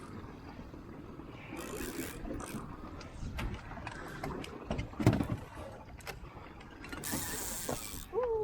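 Fishing reel ratcheting and clicking as a hooked halibut is worked up to the boat for the gaff, with a heavy thump about five seconds in and bursts of splashing. A short falling cry starts near the end.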